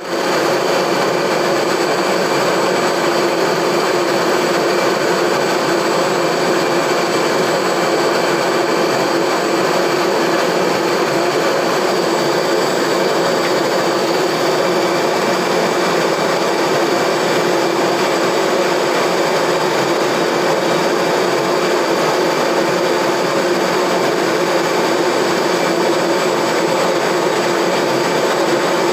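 Steady hiss with a constant high whine from an Airbus A321's jet turbines running during pushback.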